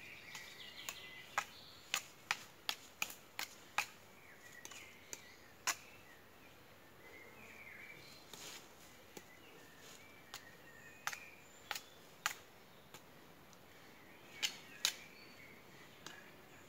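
Sharp clicks at irregular intervals, a dozen or more, over faint bird chirps.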